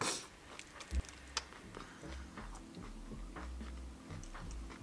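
Chewing crispy fried chicken close to the microphone: a short crunch right at the start, then scattered small crackles of the breading, with a few low muffled thumps.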